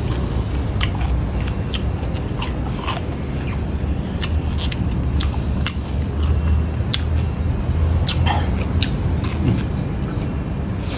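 Close-up wet chewing and lip-smacking of someone eating spicy beef salad with sticky rice: irregular sharp mouth clicks, a few a second, over a steady low hum.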